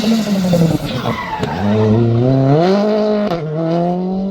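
Rally car engine that drops in revs as the car slows, then accelerates hard with the revs climbing. Upshift about three seconds in, after which the revs climb again.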